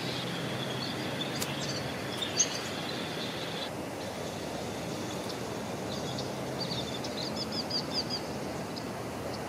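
Outdoor ambience with a steady background rumble and small birds chirping. A sharp single chirp comes about two and a half seconds in, and a bird sings a quick run of about eight repeated high notes near the end.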